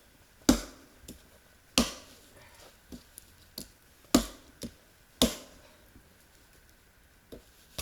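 Sharp wooden knocks and cracks from firewood being struck: four loud blows at uneven gaps of one to two seconds, with fainter taps between.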